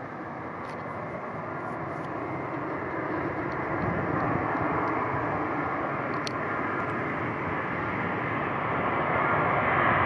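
Boeing E-3A AWACS on approach, its four TF33 turbofan engines making a steady jet noise with a faint whine that grows steadily louder as the aircraft comes closer.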